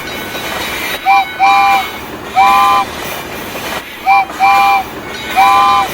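A real train's multi-note horn sounding over the steady noise of a running train: a short blast and a long blast, then another long blast, with the whole pattern heard twice.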